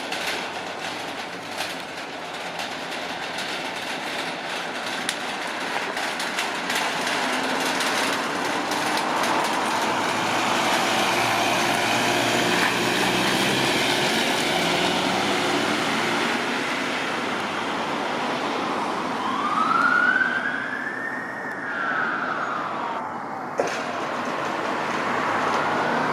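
An emergency vehicle pulls away with its heavy engine running and rising in level. Near the end its siren wails, one long rise and fall in pitch, then starts to rise again.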